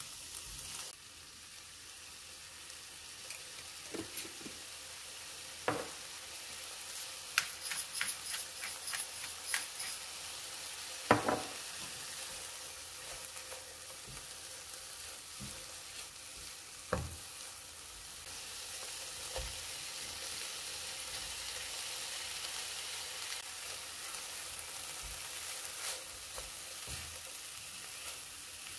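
Fried rice ingredients (diced chicken, mixed vegetables and rice) sizzling steadily in a nonstick frying pan while a silicone spatula stirs and tosses them, scraping and tapping against the pan now and then.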